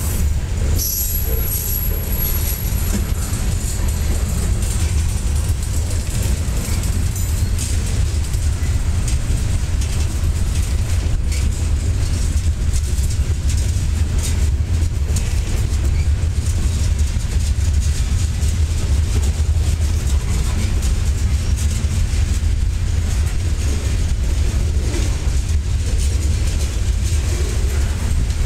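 Freight train of covered hopper cars rolling past close by, a steady low rumble of wheels on rail.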